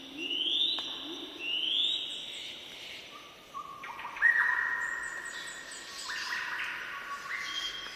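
Birds singing. In the first two seconds, a short rising call repeats about once a second. From about three and a half seconds in, several overlapping held notes at different pitches take over.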